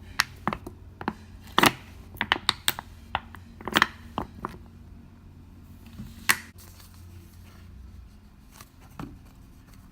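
A run of sharp clicks and taps from small objects being handled, dense over the first few seconds and then sparser, over a low steady hum.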